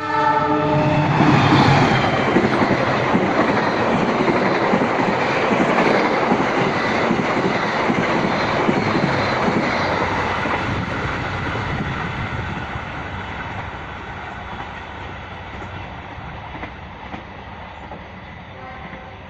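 Passenger train passing: its horn sounds briefly at the start, then the wheels on the rails make a loud rumble and clatter that slowly fades as the train moves away.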